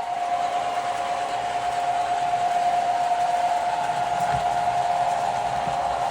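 Model train running on a layout: a steady whirring hiss with a constant, unchanging whine.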